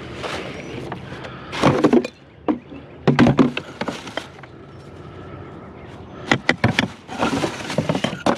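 Scrap metal being handled and loaded. There are four bursts of clanking, rattling knocks, the last the longest, near the end.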